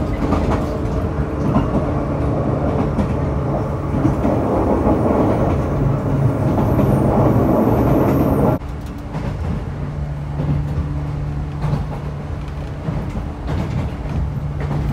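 Cabin noise of a moving train: the rumble of the running gear on the rails with a steady low hum. A little over halfway through the sound suddenly drops in level and carries on quieter.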